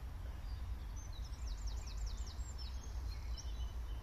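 A songbird sings a quick run of about five high, arched notes a little over a second in, with a few scattered chirps after, over a steady low outdoor rumble.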